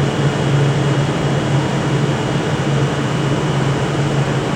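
Steady low hum and rumble of trains in a station as a ScotRail Class 380 electric multiple unit comes in, with no sudden events.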